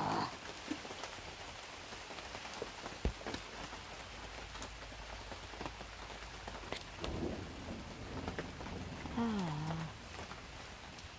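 Steady heavy rain falling in a thunderstorm, with scattered drops tapping close by. About nine seconds in comes a brief, falling hum from a person's voice.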